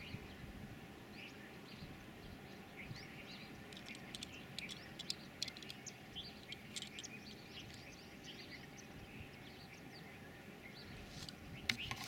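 Birds chirping faintly, with many short calls scattered throughout, over quiet outdoor background noise.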